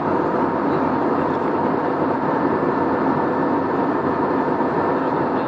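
Steady engine and airflow noise inside an airliner's passenger cabin in flight, with a few faint steady tones in it.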